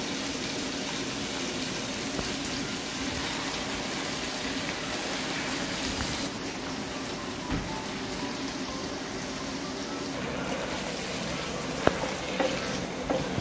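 Chicken frying in a pot of hot oil and spices, sizzling steadily as coconut milk is poured in and stirred. A few light knocks of a wooden spatula against the pot come near the end.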